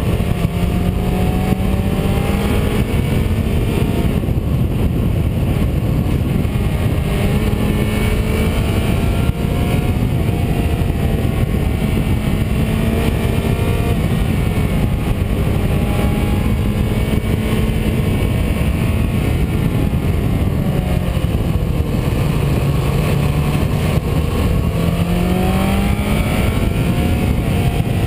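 Car engine running under load on a twisty road, its pitch rising and falling as it accelerates and eases off through the bends, over a steady rumble of road and wind noise. The pitch drops about two-thirds of the way through, then climbs again near the end.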